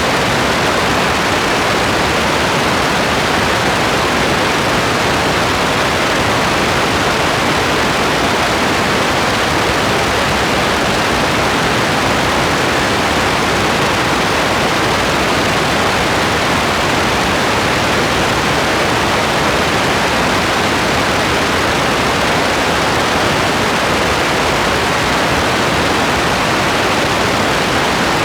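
Steady rain: an even, unbroken hiss with no distinct drops or other sounds standing out.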